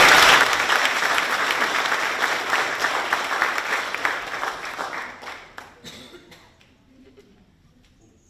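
Congregation applauding, a dense clatter of many hands clapping that dies away about six seconds in.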